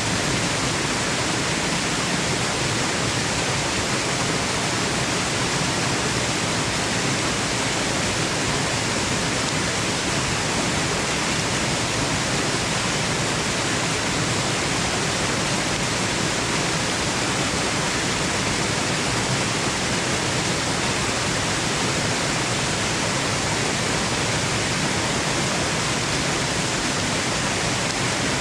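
Waterfall: a steady, even rush of falling water with no breaks or distinct splashes, used as soothing white noise for sleep.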